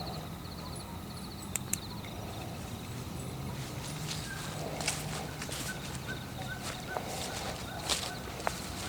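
Footsteps crunching through leaf litter on a forest floor, a step every half-second to second from about four seconds in, after a couple of sharp clicks, over a low steady hum.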